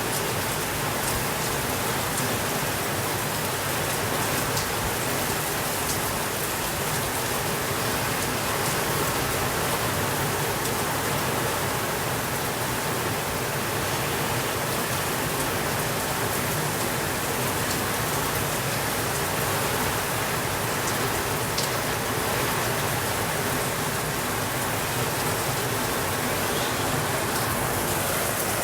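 Steady rainfall, an even hiss of rain on surfaces with no change in strength, with a few faint ticks now and then.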